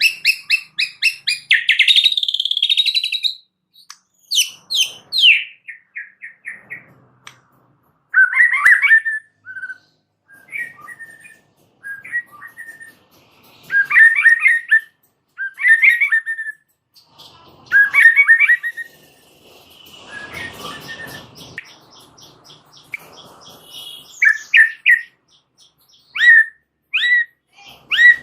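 White-rumped shama singing a varied, loud song of separate phrases: clear whistles, rapid strings of repeated notes and trills, with short pauses between them. About twenty seconds in there is a brief rough, buzzy stretch.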